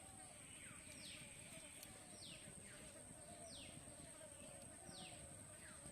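Faint bird calls outdoors: a short, quickly falling whistle repeated about five times, roughly every second and a half.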